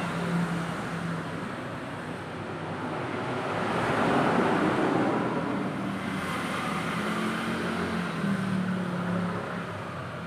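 Motor vehicle engine noise with a steady low hum, swelling in loudness about four seconds in and easing off again, like a vehicle passing.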